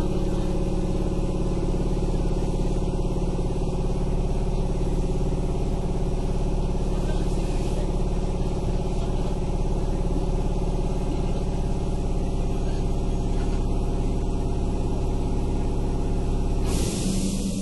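Air compressor of a standing Kintetsu 8000-series train car running steadily, then cutting out near the end with a sudden hiss of released air.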